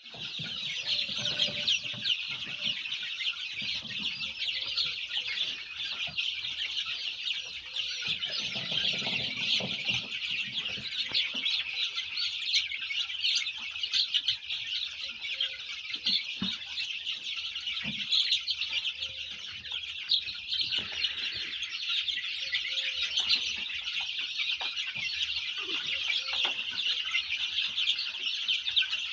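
A large group of chicks peeping constantly, a dense chorus of many short high calls overlapping, with a few lower calls now and then.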